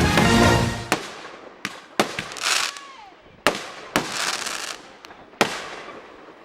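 Fireworks bursting: sharp bangs roughly once a second, some followed by a short spell of crackling, with one falling whistle in the middle.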